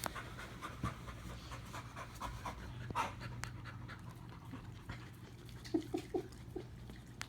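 Two dogs, a pit bull among them, panting while they lick at each other's mouths, in quick short breaths. A few short louder sounds come near the end.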